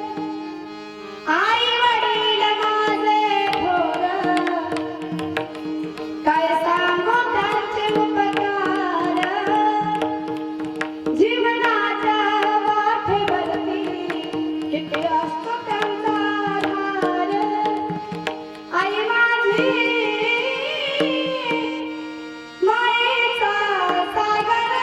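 Indian devotional kirtan music: a voice singing melodic phrases over a steady drone, with hand-drum strokes. Each phrase starts suddenly and fades over a few seconds before the next begins.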